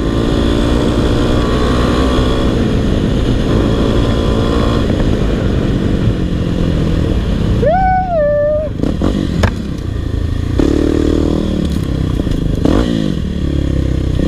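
Single-cylinder four-stroke dirt bike engine running and revving up and down while being ridden along a trail.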